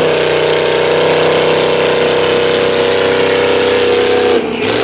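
Truck engine held at high revs under full throttle, pulling against a tug-of-war strap, then cut off abruptly near the end as the throttle is released.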